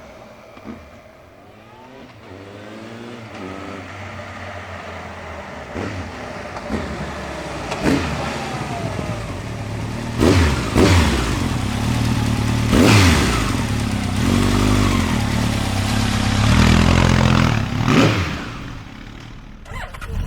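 Honda CB1100's air-cooled inline-four running through its exhaust, idling and then revved repeatedly, with several sharp throttle blips in the second half.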